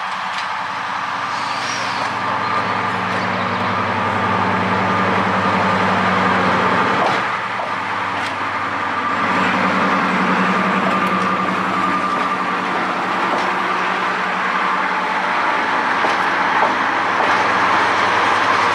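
A heavy diesel engine running steadily with a deep hum, dipping briefly about seven seconds in before picking up again.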